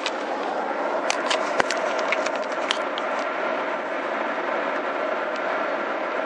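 Car driving through a curve, heard from inside: steady road and engine noise with a held hum, and a scatter of small clicks and rattles in the first three seconds.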